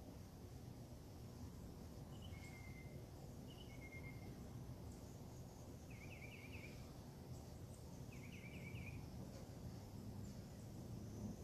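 Faint bird calls over a low background rumble. Two pairs of short, high notes come first, then two quick warbled trills about two seconds apart.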